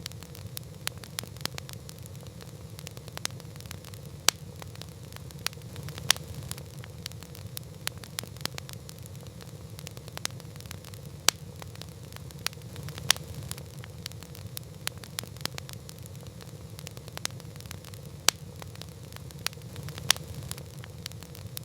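Campfire burning with irregular sharp crackles and pops from the wood over a steady low rumble of the flames.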